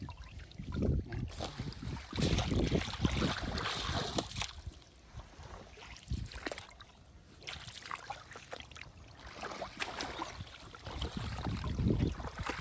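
Water sloshing and splashing in irregular surges as someone wades through a canal, with small splashes and drips between the louder surges.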